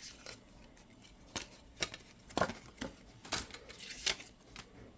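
Album contents being handled by hand: light, irregular clicks and rustles of paper and plastic inclusions as they are taken out and shuffled.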